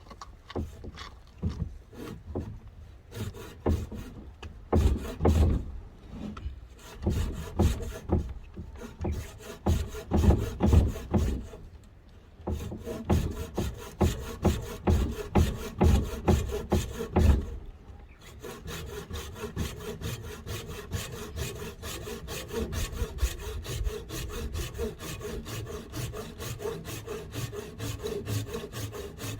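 Hand saw cutting through wood in back-and-forth strokes, uneven and heavy at first, then settling into a quicker, steady rhythm a little past halfway.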